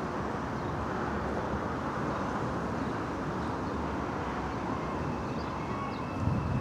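Steady outdoor background noise, an even hiss and hum with no clear single source, and a brief low rumble about six seconds in.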